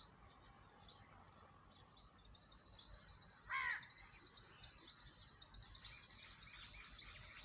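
Faint bird chirping: short high chirps repeating about twice a second, with one louder falling call about three and a half seconds in, over a steady high-pitched whine.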